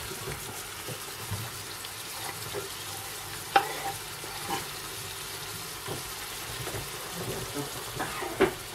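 Steady sizzle of food frying in a pan. Over it, a knife scrapes sliced onion and tomato off a wooden chopping board into a cast-iron frying pan, with a few sharp clicks; the loudest comes about three and a half seconds in.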